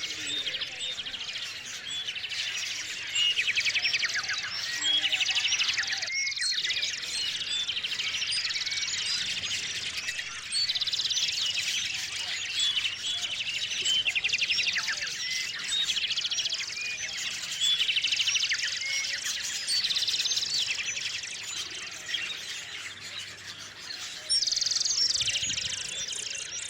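A chorus of small songbirds chirping and chattering, with louder bouts of rapid trilled chatter every few seconds.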